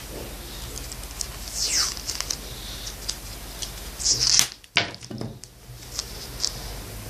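Hands working on a plastic model boat: scattered small clicks and two louder scraping swishes, one about 1.5 s in and one about 4 s in. A steady low electrical hum runs underneath, and the sound briefly drops out just after the second swish.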